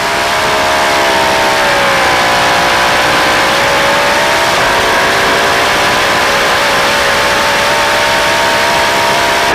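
A drag boat's racing engine running flat out on a run, loud and steady. Its high engine note dips slightly in pitch about two seconds in, then holds.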